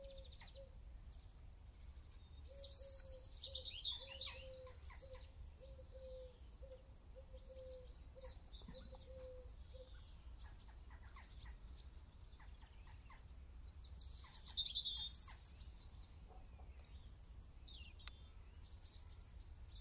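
Faint birdsong: scattered high chirps and twitters, with two louder bursts of twittering, and a short low note repeating about once a second for several seconds, over a steady low hum.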